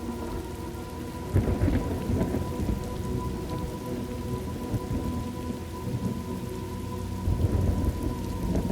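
Thunderstorm: steady rain with rolling thunder. A rumble breaks in suddenly about a second and a half in, and another swells near the end.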